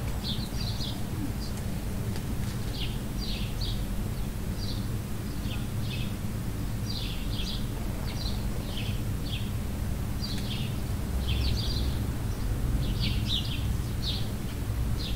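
Small birds chirping in short, high, repeated calls, a few every second, over a steady low background rumble.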